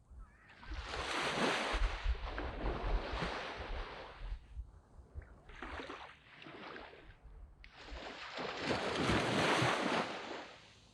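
Waves breaking and washing up a sand beach: two big surges with a smaller wash between them, each swelling and then fading.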